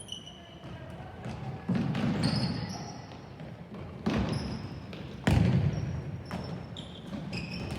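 Sneakers squeaking on a hard indoor court, with a ball thudding loudly three times during play in a large hall.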